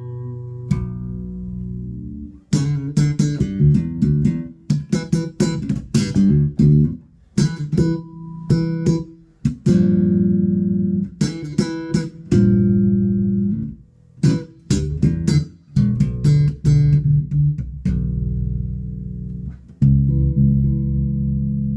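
Spector Euro 4 Classic electric bass with active EMG pickups, played solo through a Markbass Little Mark 58R combo amp: a busy line of short, sharp-attacked notes broken by a few held notes. The amp's EQ is switched from flat to scooped a few seconds in.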